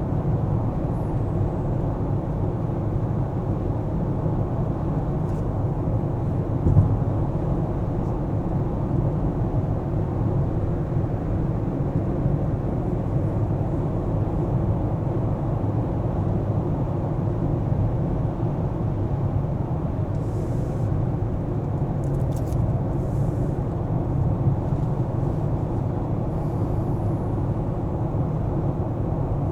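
Steady car driving noise, the low rumble of engine and tyres on the road, with one short thump about seven seconds in and a few faint high ticks later on.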